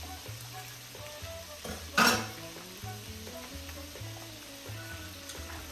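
Pieces of seasoned chicken thigh sizzling as they fry in a pan, with one sharp knock about two seconds in.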